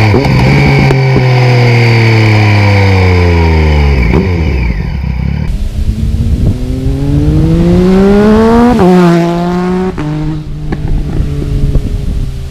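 2016 Triumph Speed Triple R's three-cylinder engine through an Arrow full exhaust system with the baffle removed. The engine note falls as the bike slows, with pops and crackles coming out of the exhaust. About six seconds in it revs up hard under acceleration, the revs drop suddenly about nine seconds in, and it then pulls on lower with more crackles.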